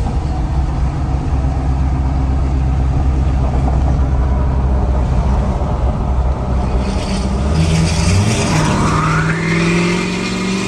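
Pickup truck engine running steadily while driving, then about eight seconds in it is pushed into a short hard pull: the engine note rises in pitch, with a rising whine and a rushing hiss.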